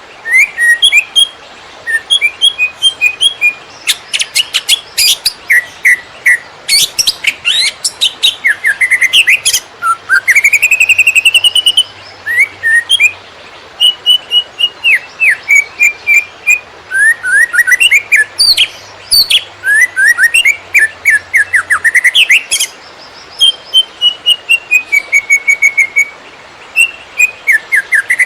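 Green leafbird (cucak ijo) singing non-stop in the rapid, crackling 'konslet' style: a dense run of short chirps, rising and falling whistled glides and sharp clicking notes with hardly a pause.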